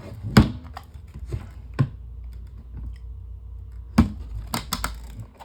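Sharp, irregular plastic clicks and knocks from handling an electric fan's blade and parts, a few spaced apart and then a quick cluster near the end, over a low steady hum.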